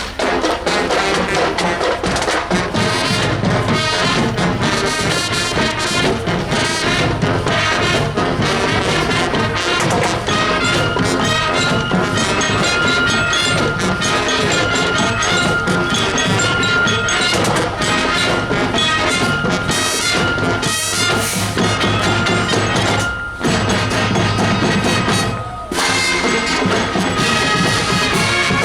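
Marching band playing: brass (trumpets and trombones) over drums, with a held high note through the middle and two brief breaks near the end.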